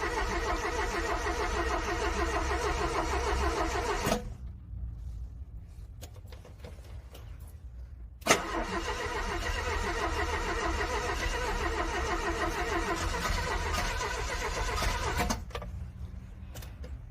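A car's starter cranking a cold engine that does not fire: one cranking attempt stops about four seconds in. After a pause and a sharp click, a second attempt of about seven seconds also stops without the engine catching.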